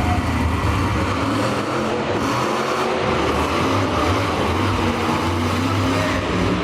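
Monster truck engines running loud and steady, a dense engine noise with a low drone throughout.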